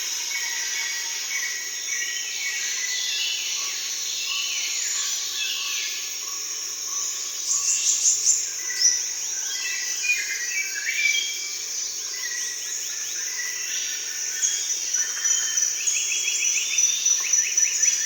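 Rainforest daytime chorus: a steady high-pitched drone of insects, with many birds calling over it in whistles and rapid trills.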